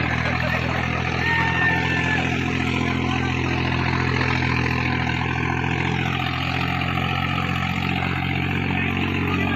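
Tractor diesel engine running steadily under load, pulling a two-row implement through the soil.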